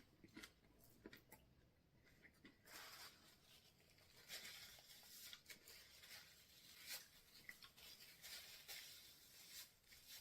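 Faint, irregular crunching and rustling of someone eating a crispy fried tortilla pocket (a Taco Bell Cheesy Chicken Crispinada), with small clicks scattered through.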